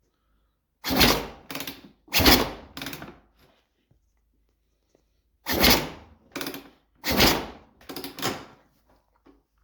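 Kawasaki KX450F kickstarter being kicked through over and over, a series of sharp mechanical clunks in two bursts of strokes, with the engine not catching.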